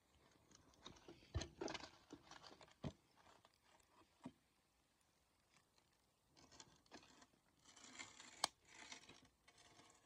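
Wood campfire crackling quietly, with irregular small pops in two busier spells and one sharper pop late on.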